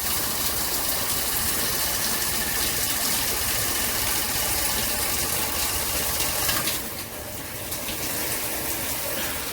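Water spraying steadily from a high-pressure handheld shower head, a continuous hiss. About seven seconds in the spray turns softer and less hissy, as if the spray setting was changed.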